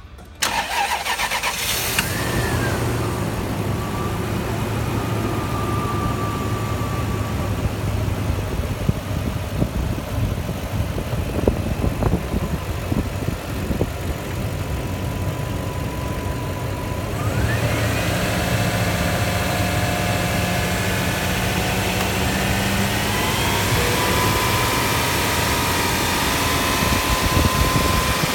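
Toyota Land Cruiser 100 series 4.7-litre V8 engine starting and then idling steadily. About two-thirds of the way in, the engine speed rises and is held higher, stepping up again a little later.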